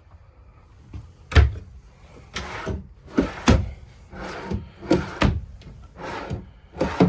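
Travel-trailer storage drawers being pulled open and pushed shut: a run of about ten wooden knocks and slides.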